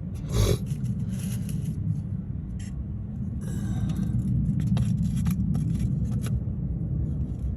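Chevrolet C10 pickup engine idling steadily, now running after the distributor was retimed to cure a no-spark, no-start fault. Short metallic scrapes and clicks of hand tools on the engine sound over the idle.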